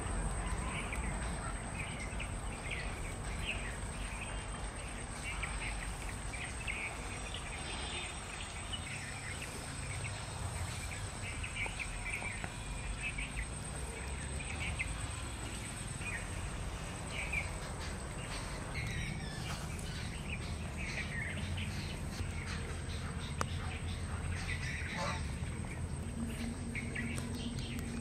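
Small birds chirping and calling in short, scattered notes, over a steady low background rumble.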